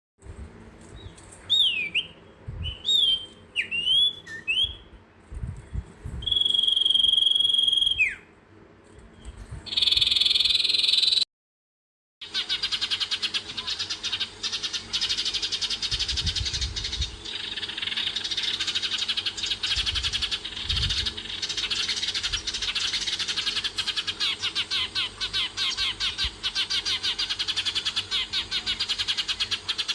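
Animal calls: short sliding whistled calls and one held whistle, then, after a brief cut, a dense chorus of rapid trilling calls that runs on steadily.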